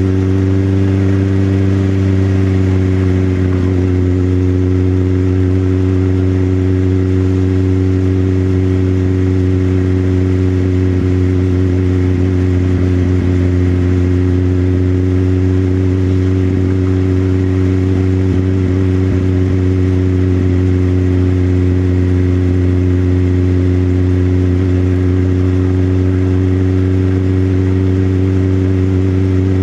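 Motorcycle engine running at a steady cruising speed, a constant low drone whose pitch eases down slightly a few seconds in and then holds.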